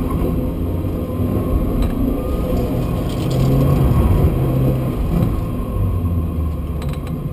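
Renault Twingo Gordini engine working hard through a slalom, heard from inside the cabin. The engine note rises and falls as the car accelerates and slows between cones, with road and tyre rumble underneath.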